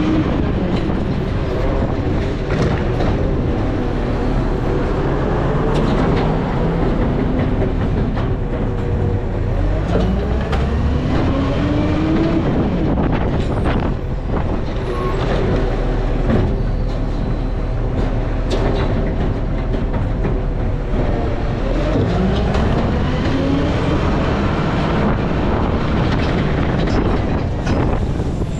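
Garbage truck driving, its engine running with a rising whine twice as it picks up speed, over steady rumble and constant rattling and clunking of the truck's body.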